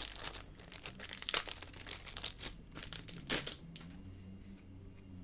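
Baseball trading cards being handled and shuffled by hand, with light rustling and clicking of card stock that dies away after about three and a half seconds.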